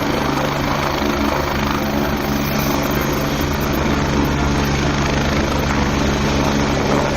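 Helicopter sound: a steady rotor beat with an engine hum and whine.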